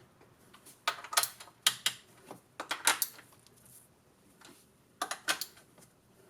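Hand tools clicking and clinking on metal as the valve-cover bolts are tightened by feel rather than with a torque wrench, in four short bursts of a few sharp clicks each.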